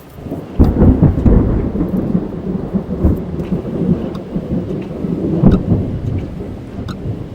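Thunder heard from inside a car: a loud rumble breaks in suddenly about half a second in and rolls on, swelling again past the middle, over rain drumming on the car.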